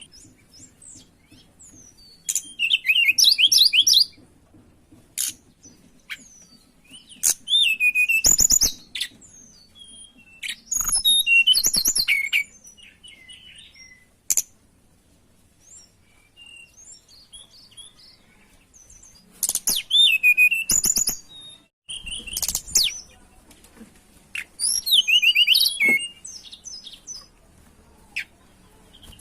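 A tledekan, a small Indonesian songbird, singing in about six short bouts of high, fast chirping and warbling with pauses between them: the eager song of a bird in breeding condition calling out a rival.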